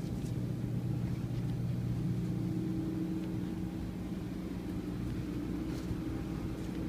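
Steady low machine hum holding a few even tones, with a faint click now and then.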